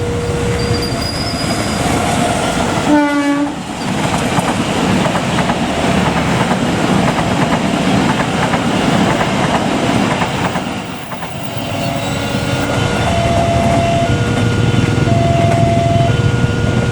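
A train gives a short horn blast about three seconds in, then passes close by with loud wheel and carriage noise for about seven seconds. A two-tone electronic warning alternates about once a second, typical of a level-crossing alarm; it is drowned by the passing train and comes back clearly near the end.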